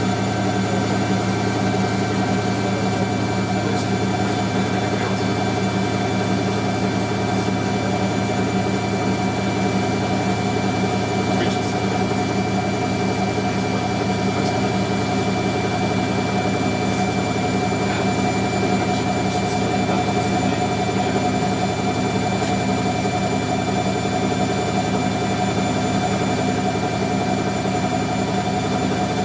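Hoover Electron 1100 washing machine spinning at a steady speed: an even motor hum with a buzz and a faint regular pulse from the turning drum.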